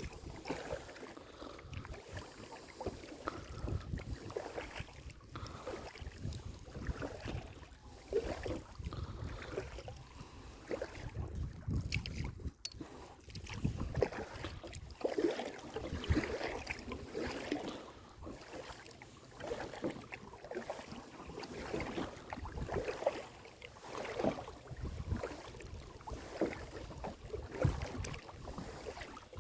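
Kayak paddle strokes dipping and splashing in the lake water, irregular and repeated, over a low rumble of wind on the microphone.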